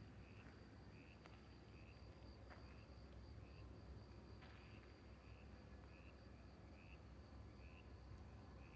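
Faint outdoor ambience of insects: a steady high trill with short chirps repeating at an even pace, roughly three every two seconds, over a low background rumble.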